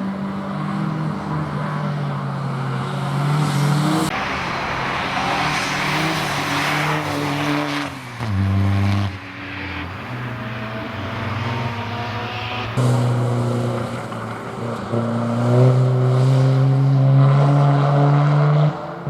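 Hill-climb race car engine running hard at high revs, its pitch climbing and then dropping several times as it shifts gear.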